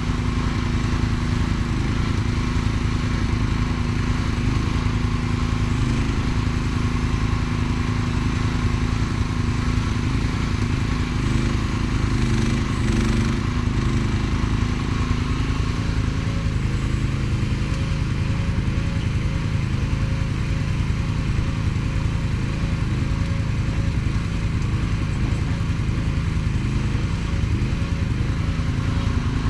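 Mini excavator engine running steadily under work, its note shifting about halfway through.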